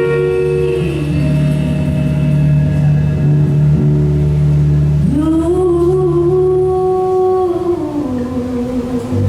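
A live song: a singer holding long, drawn-out notes that step up about five seconds in and drop back near the end, over steady sustained accompaniment.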